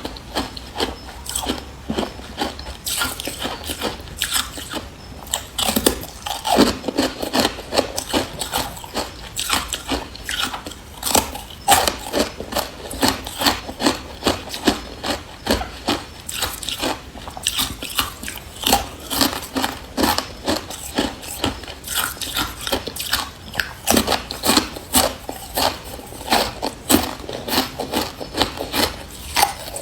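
Close-up crunching of carbonated ice being bitten and chewed: a rapid, irregular string of sharp, brittle crunches, several a second.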